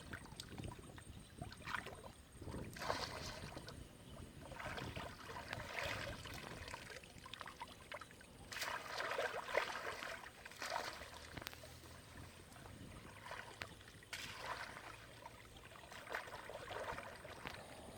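Water splashing and sloshing in uneven bursts, with a few sharp clicks.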